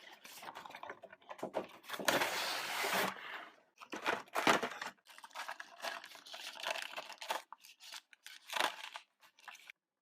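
Toy packaging being opened by hand: irregular crinkling and rustling, with a longer tearing sound about two seconds in and a few sharper handling noises after it.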